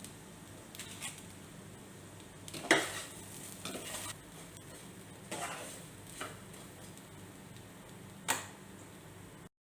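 A utensil stirring and scraping in a kadai as rice-flour dumplings are tossed with grated coconut: several separate scrapes, the loudest about three seconds in, over a faint steady low hum.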